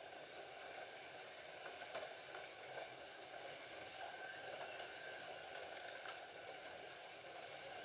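Several Scalextric slot cars running around a plastic track: a steady whirr of small electric motors and wheels, with a few faint clicks.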